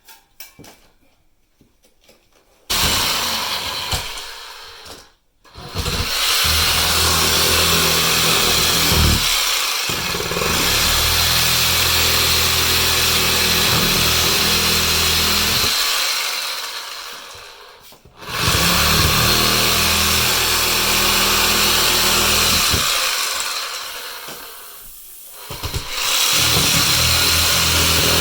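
An electric power tool running loud and steady in several long runs. It starts a few seconds in, stops briefly twice, and eases down for a moment near the end before starting again.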